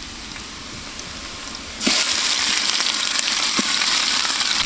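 Sliced onions and green chillies frying in hot oil in a large aluminium pot, a soft sizzle at first. About two seconds in, ginger-garlic paste goes into the oil and the sizzle turns suddenly much louder, with scattered crackles.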